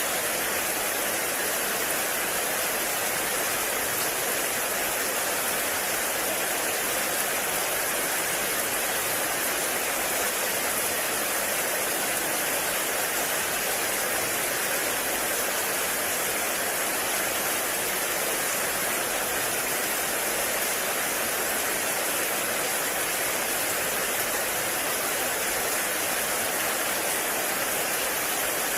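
Heavy rain falling steadily, an even hiss without breaks or single drops standing out.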